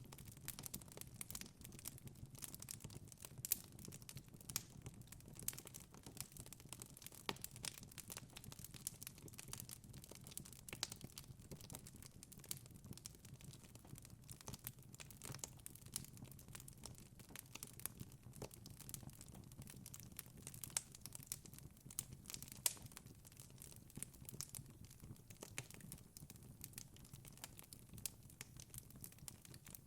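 Wood fire burning in a fireplace: a steady low rush of flames with frequent small crackles and sharp pops from the burning logs, a few louder snaps among them.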